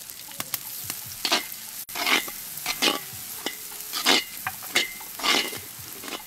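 Sliced shallots sizzling in hot oil in a large wok, with a metal spatula scraping and stirring them in strokes about once a second.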